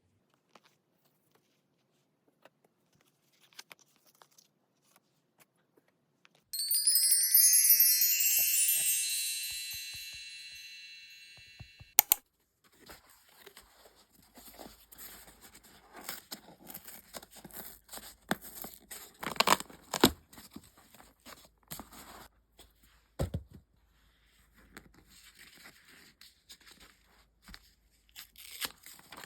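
A bright chime rings out and fades over about five seconds, then packaging is torn and crinkled open with scattered sharp clicks and rustles.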